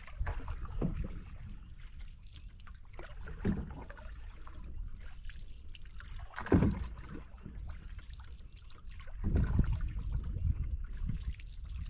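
Canoe being paddled on a river: a paddle stroke in the water about every three seconds, over a steady low rumble.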